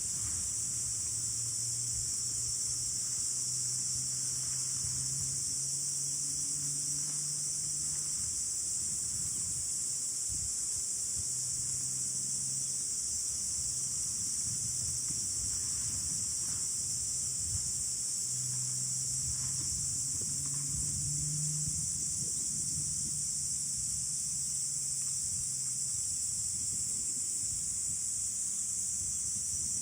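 Steady high-pitched chorus of insects, with a low rumble of wind buffeting underneath.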